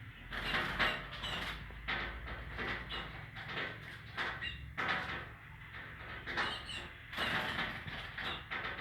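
Small pet bird pecking and scratching at its own reflection in a mirror: a rapid, irregular run of light taps and scrapes in clusters, over a steady low hum.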